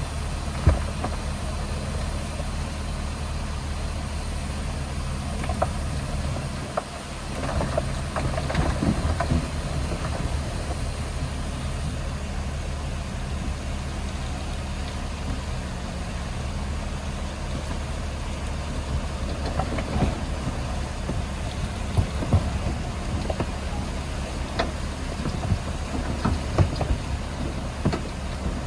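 Shantui DH17C2 bulldozer's diesel engine running steadily, with scattered short clanks and knocks, and a brief dip in level about seven seconds in.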